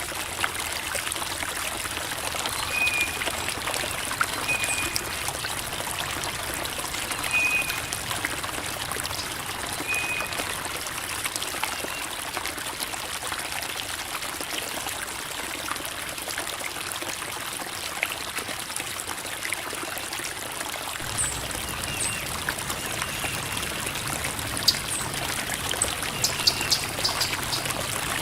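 A creek babbling and trickling over rocks: a steady splashing rush of flowing water. In the first ten seconds a few short high chirps come every couple of seconds.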